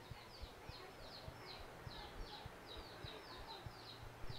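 A bird in the background repeating short, high, falling chirps, about three a second.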